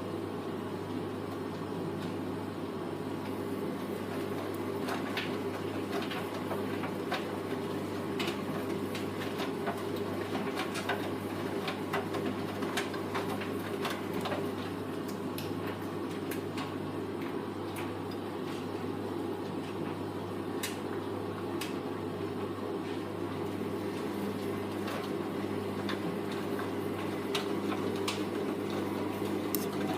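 Hoover VT 914 D22X washing machine running its wash, a steady motor hum with scattered light clicks and taps through it.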